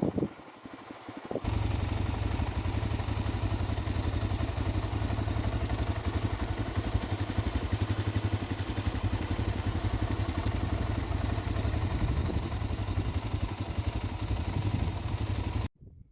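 Single-cylinder dual-sport motorcycle engine running steadily under way, with a fast low thudding pulse and wind rush. It cuts in sharply about a second and a half in and cuts off just before the end.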